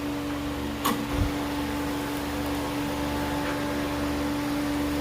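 Steady machine hum with a low rumble underneath, broken by a click and a low thump about a second in.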